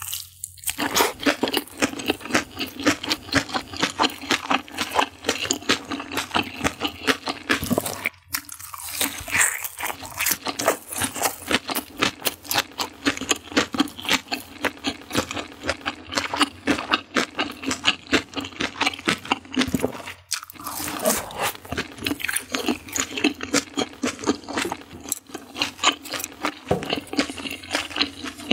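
Close-miked eating sounds: chewing and crunching through crusty food, a dense run of small crackles that pauses briefly about eight seconds in and again about twenty seconds in.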